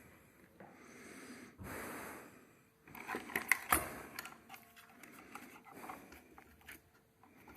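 Hand work on ceiling-fan wiring: a couple of soft breaths, then a cluster of small clicks and scrapes of wires and metal parts being handled, about three to four and a half seconds in.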